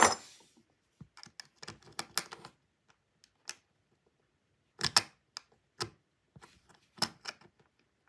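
Small plastic parts of a toy train clicking and knocking as they are handled and fitted back together. Scattered sharp clicks with quiet gaps, a few louder clusters about five and seven seconds in.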